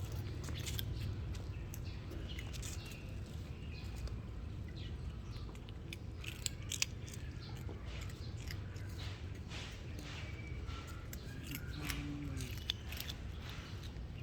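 A cat chewing food, with irregular sharp crunching clicks over a steady low hum.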